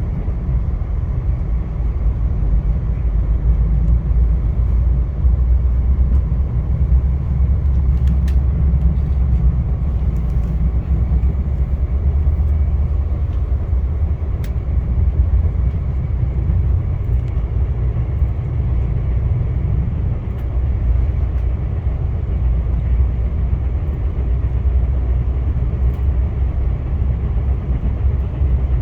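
Via Rail passenger train running along the track with a steady low rumble and a few faint ticks.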